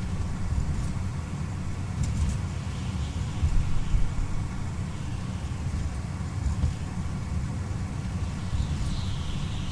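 A car driving along a street, heard from a microphone on its roof: a steady, fluttering low rumble of wind buffeting and road noise.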